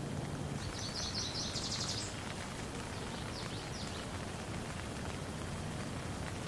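Steady rain falling on a pond, with a bird singing a short, quick, high trill about a second in and a few fainter high notes shortly after.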